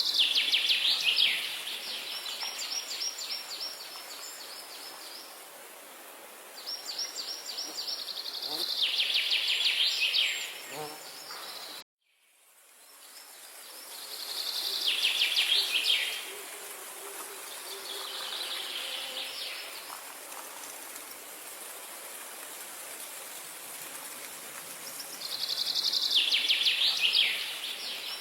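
A songbird singing rapid trilled phrases, each about two to three seconds long and repeated every few seconds, over a steady hiss of outdoor ambience. The sound drops out abruptly for a moment about twelve seconds in, then fades back in.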